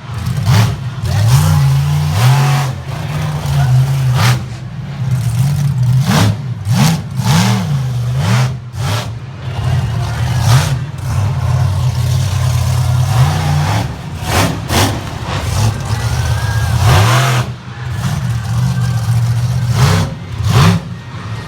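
Monster truck's engine revving hard in repeated bursts, its pitch swinging up and down, with frequent short loud blasts throughout.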